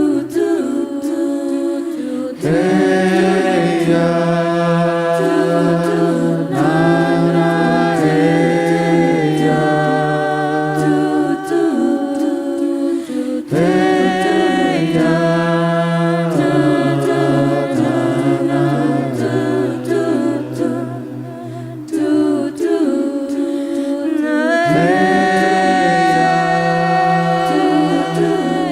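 A cappella vocal group singing in close harmony, with a sustained bass voice under several upper voices and the chords changing every few seconds.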